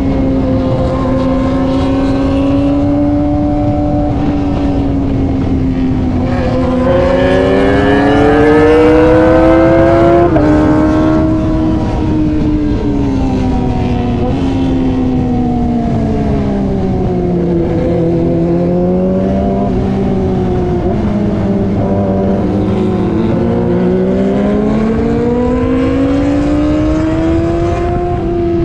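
Kawasaki ZX-25R's inline-four engine with an aftermarket racing exhaust, running at high revs on the move, its pitch rising and falling smoothly as the throttle changes, loudest about a third of the way in, with wind noise underneath.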